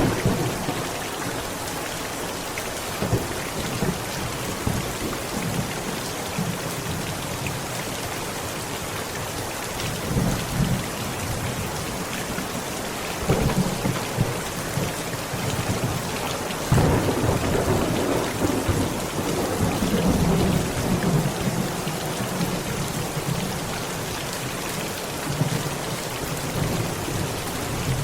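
Heavy, steady rain with thunder rumbling several times, the longest and loudest roll about two thirds of the way through.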